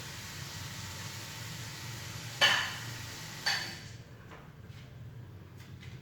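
Two sharp knocks of a hard object about a second apart, each ringing briefly, over a steady hiss that drops away about four seconds in; a few faint clicks follow.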